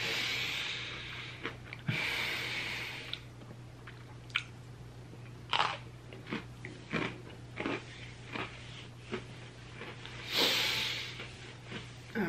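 A person chewing a Golden Oreo cookie with the mouth closed: scattered small crunches and wet mouth clicks, with longer hissing stretches at the start and about ten seconds in. A steady low hum runs underneath.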